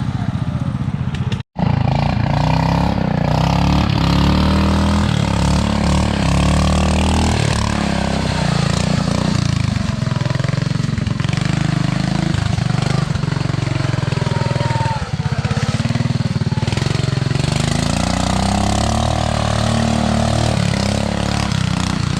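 Small tractor engine running hard, its pitch rising and falling as the throttle and load change. There is a brief silent gap about one and a half seconds in.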